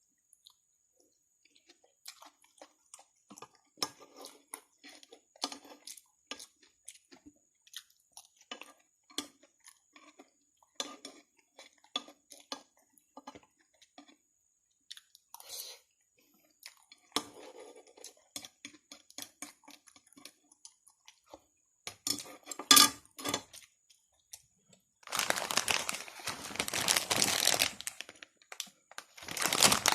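Close-miked eating of spicy instant noodles: wet chewing with many small mouth clicks. There is a sharp clink of utensil on bowl about two-thirds of the way through, and a louder rushing stretch of about three seconds near the end.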